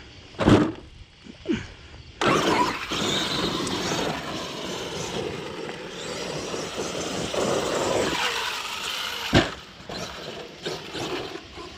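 Arrma Outcast 8S 1/5-scale electric RC stunt truck running on dirt. A thump about half a second in, then about seven seconds of motor and tyre noise, ending in a sharp knock.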